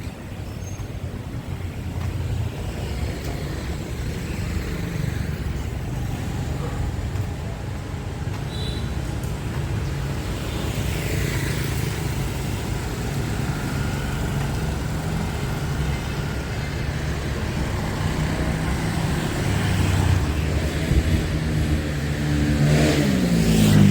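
Busy street traffic: cars and motorbikes passing with a steady engine rumble, one vehicle passing close and accelerating near the end.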